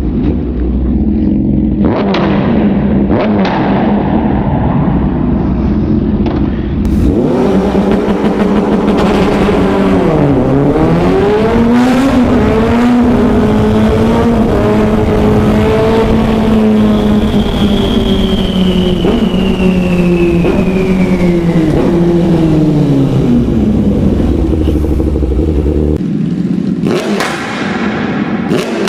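Superbike engines revving hard across several clips, the engine pitch climbing and falling with a deep dip about a third of the way in. Midway a high whine glides slowly down in pitch.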